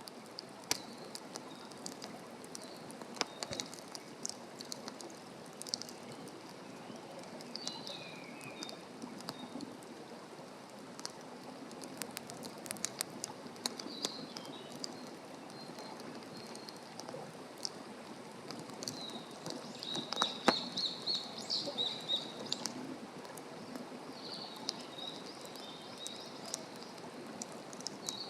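Campfire crackling with frequent sharp pops and snaps of burning wood, while small birds chirp and sing. A busy run of bird calls and the loudest pop come about two-thirds of the way through.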